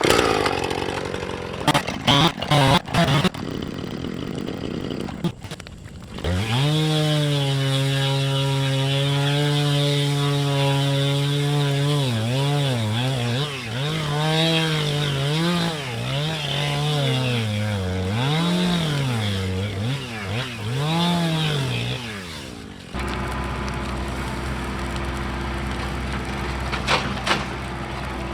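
An engine running at high speed, steady at first, then dipping in pitch and climbing back again and again as it takes load. A few sharp knocks come before it, and a lower steady hum follows near the end.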